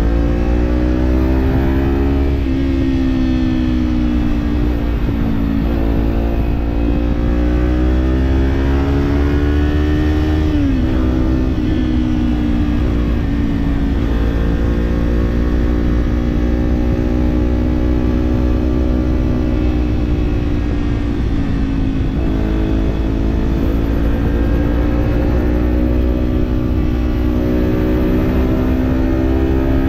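Parallel-twin Kawasaki Z-series motorcycle engine with an aftermarket slip-on exhaust running under way, the revs rising and easing slowly. The engine note drops sharply about ten seconds in, like an upshift, and dips again about two-thirds through before climbing.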